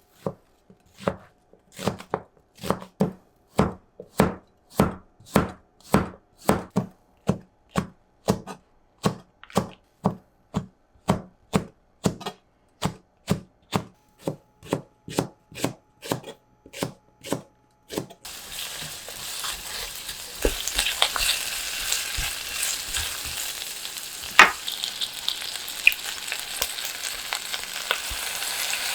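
Knife chopping food on a cutting board in a steady, even rhythm of about two strokes a second. The chopping stops after about 18 seconds and is replaced by a steady sizzle of food frying in a pan, with one sharp click partway through.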